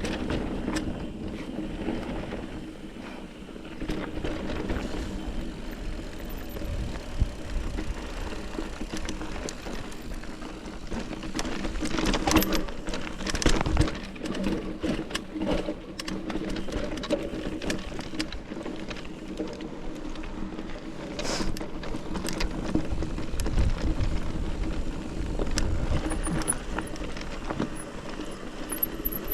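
Mountain bike rolling over a rough, rocky trail: tyre noise with the bike rattling and clattering, and sharp knocks from bumps, with a cluster of louder knocks around the middle.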